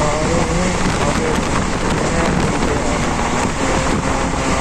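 Passenger train running, a steady, unbroken rumble of the moving coaches mixed with wind noise on the microphone.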